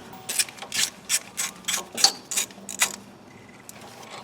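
A 1/4-inch ratchet on a long extension clicking as it is worked back and forth, backing out an 8 mm bolt on a four-wheel-drive actuator; short sharp clicks about three a second that stop about three seconds in.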